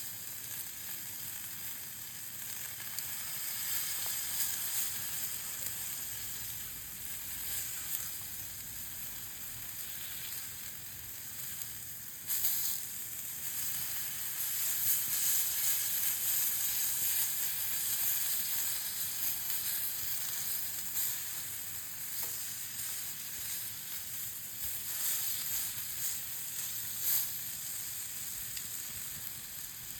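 Meat sizzling steadily as it cooks over a campfire, a continuous high hiss with small crackles, turning suddenly louder about twelve seconds in.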